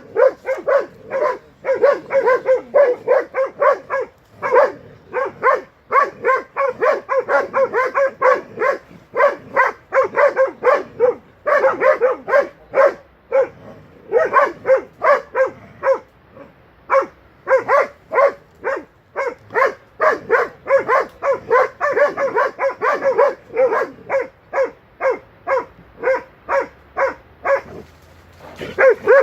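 Young hunting dog barking at bay at a wild boar: a long, rapid run of sharp barks, about two or three a second, broken only by a couple of short pauses.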